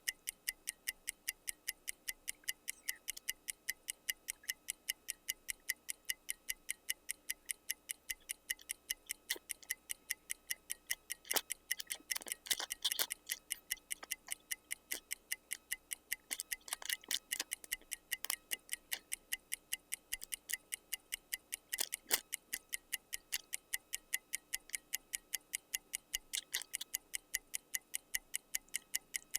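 Fast, even ticking like a clock, about four ticks a second, with a few louder irregular clicks and rustles now and then.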